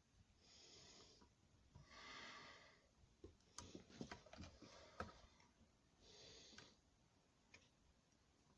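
Quiet handling sounds: small clicks and taps between about three and five seconds in as fingers work a rubber return fuel line onto a small two-stroke carburettor, with a few soft breaths through the nose.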